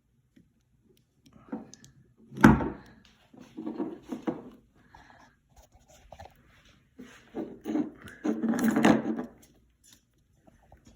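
Handling noises: a series of knocks, clunks and rubbing, with one sharp, loud thump about two and a half seconds in and a longer spell of rubbing and knocking near the end.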